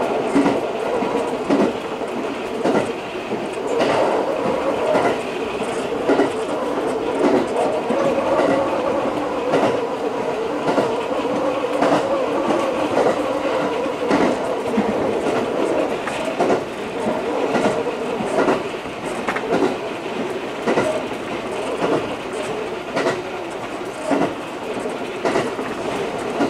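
Electric train running along the track, heard from the front of the car: a steady running noise with the wheels clicking over rail joints at irregular intervals.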